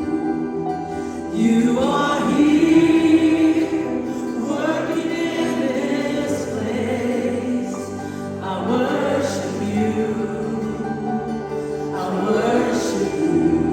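Congregational worship singing: a choir of voices with instrumental backing sings a slow praise song in long held phrases of a few seconds each.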